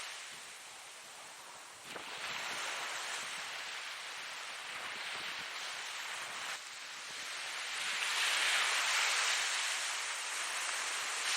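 Ocean surf: a steady wash of breaking waves that rises and falls. A fresh wash comes in suddenly about two seconds in, and a wave swells louder near the end.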